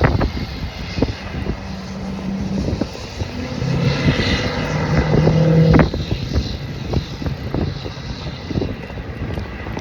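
Wind buffeting the microphone while riding a bicycle, with scattered knocks. A motor's steady hum comes in twice in the middle, louder the second time, and cuts off suddenly about six seconds in.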